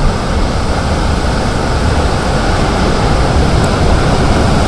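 Strong wind from a nearby tornado rushing and buffeting the microphone: a loud, steady rush with a heavy low rumble.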